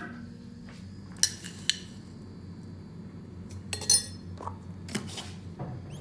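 Dishes and cutlery clinking: a handful of sharp clinks with a short ring, the loudest about four seconds in, over a low steady hum.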